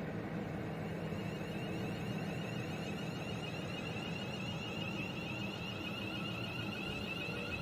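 Electronic warbling alarm: a high, rapidly pulsing tone that grows stronger a few seconds in, over a steady low rumble.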